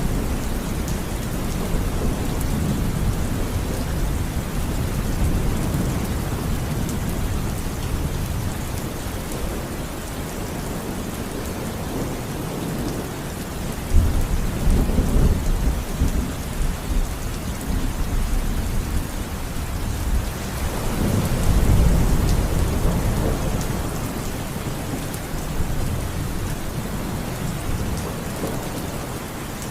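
Thunderstorm: steady rain falling, with a sudden clap of thunder about halfway through and a second long rumble of thunder swelling soon after.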